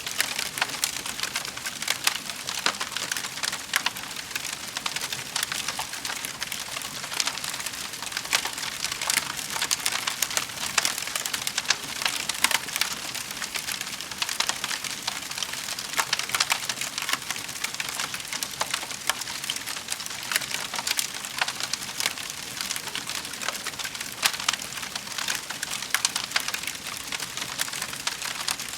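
Wood fire crackling steadily in a fireplace, a dense stream of small pops and snaps with a few sharper cracks.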